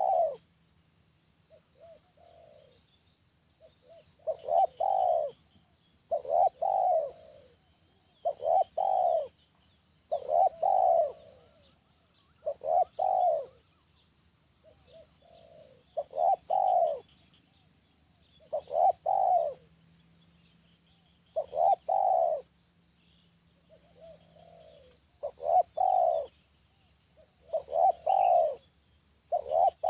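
Spotted dove (tekukur) cooing over and over: a loud phrase of a short note and a longer one about every two seconds, with a few fainter coos in between.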